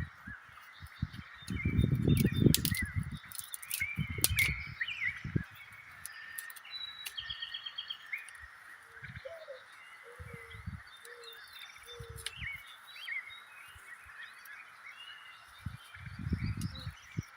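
Wild birds chirping and calling over a steady high hiss of background chorus, with a run of four short low calls in the middle. Three times, loud low rustling and thudding cuts in, around two seconds in, around four seconds in and near the end.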